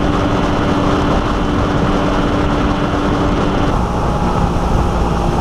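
Fishing boat's outboard motor running steadily, its tone dropping a little in pitch about two-thirds of the way through.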